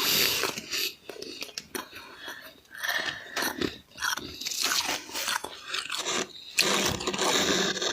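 Freezer frost being bitten and chewed, crunching again and again in irregular bites.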